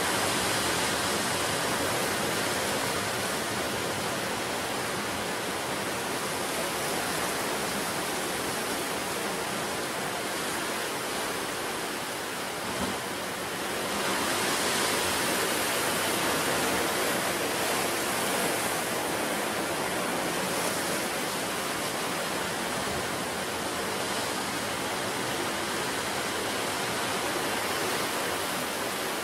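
Ocean surf washing onto the shore in a continuous rush, with a wave surging a little louder about halfway through.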